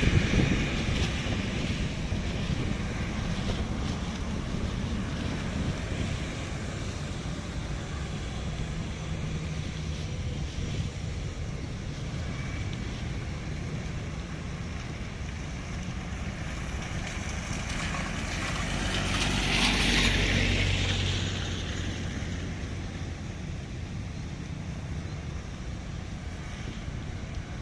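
Jet airliner engines running, heard as a steady rushing roar with jet blast buffeting the microphone in a low rumble. The roar swells to its loudest about twenty seconds in, then eases back.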